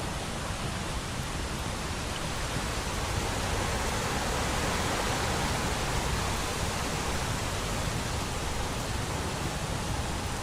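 Steady rain falling: an even hiss that swells a little in the middle and eases again.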